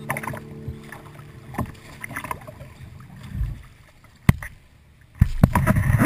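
Water splashing and sloshing around a kayak as the paddle works the water, with a sharp knock about four seconds in. Strummed guitar music starts loudly near the end.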